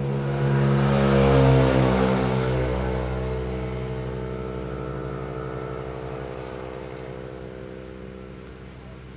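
Electric bike motor running with a pitched whir that swells about a second and a half in, then slowly fades as it winds down.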